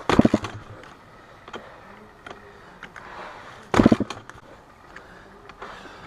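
Dirt bike engine in two short bursts of rapid firing pulses, each about half a second long and nearly four seconds apart, with faint clicks in between.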